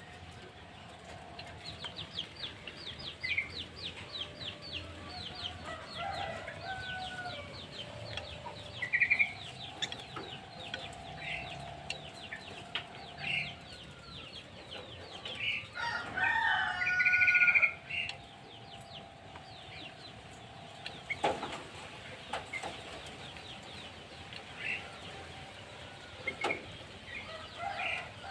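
Chickens and small birds calling: hens clucking and a rooster crowing, mixed with rapid high cheeping and short whistled bird notes. The loudest stretch, about two-thirds of the way in, is a burst of layered calls.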